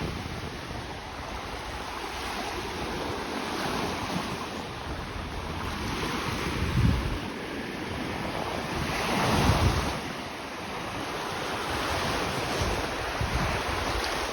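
Lake waves washing onto a sandy beach in a steady surging hiss, with wind buffeting the microphone in low rumbling gusts, most strongly about 7 and 9 to 10 seconds in.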